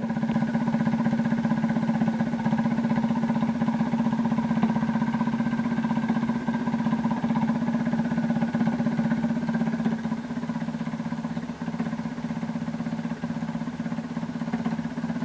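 Doodlebug minibike's Predator 212 single-cylinder four-stroke engine idling steadily.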